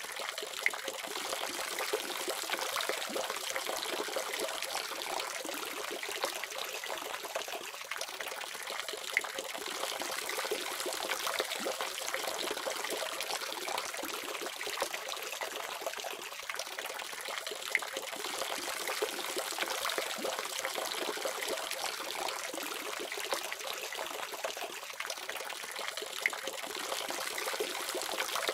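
Water running steadily from a faucet, a continuous trickling splash with small drips and plinks scattered through it.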